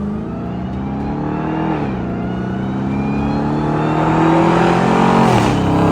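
Ram TRX's supercharged 6.2-litre V8 with a straight-piped exhaust, mufflers cut off, accelerating hard through the gears: the pitch climbs, drops at an upshift about two seconds in, climbs again and drops at another shift near the end.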